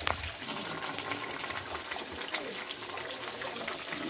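Hot mineral spring water gushing steadily out of a hole in the rock and splashing down.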